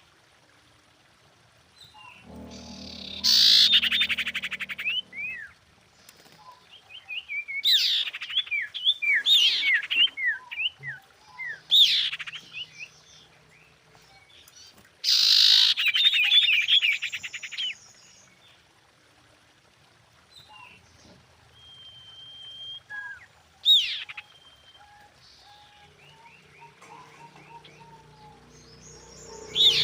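Female common iora calling: bouts of rapid, high chirps and short sliding whistles, each bout a second or two long, repeated about six times with pauses of a few seconds between them. This is the female's call to a male, used as a lure.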